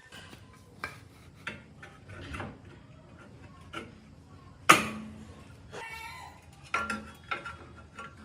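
Irregular metallic clanks and knocks, like tools and metal parts being handled and struck, the loudest about halfway through with a brief ringing after it.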